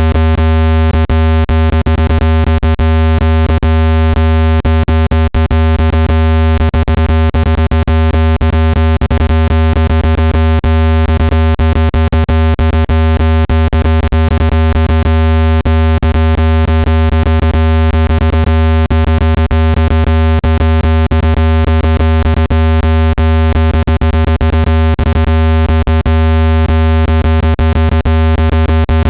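Synthesized speaker water-ejection tone: a loud, steady, low-pitched electronic hum with many overtones, broken by frequent clicks, made to shake trapped water out of a phone speaker.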